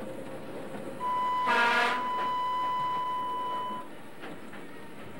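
Train running through a station, with a steady rumble underneath. About a second in, a high steady tone starts and holds for nearly three seconds. Over it comes a short half-second horn blast, the loudest sound.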